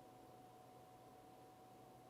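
Near silence: room tone with a faint steady tone held at one pitch.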